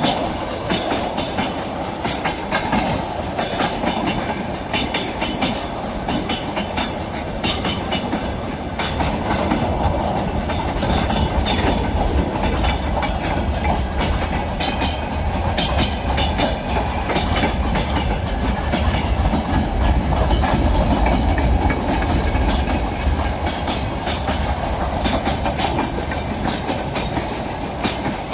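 Freight train rolling past, its wagon wheels clattering over the rail joints in a continuous run of clicks. A deeper rumble comes in about a third of the way through and holds.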